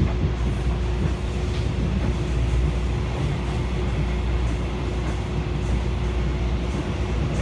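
EMU500-series electric multiple unit running into a station: a steady low rumble of the cars, with a faint steady hum.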